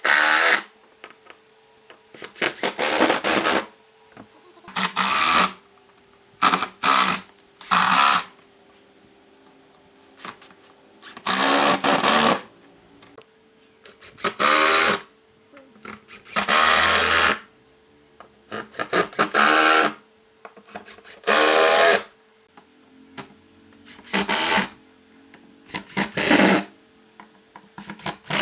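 A tool working wood in short repeated strokes, each about half a second to a second long and coming every one to two seconds, with a faint steady hum between them.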